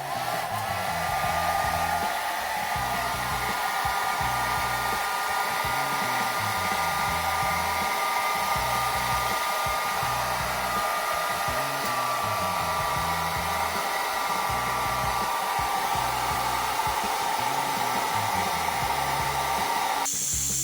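Hand-held electric hot-air blower running steadily, its motor whine rising as it spins up at the start, then holding, and cutting off suddenly at the end.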